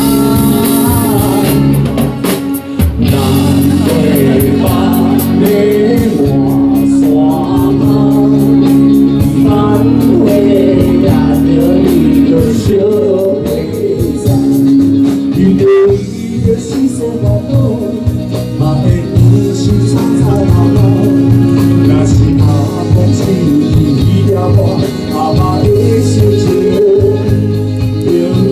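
Loud live band music with guitar and a regular beat, a wavering melody line over held chords.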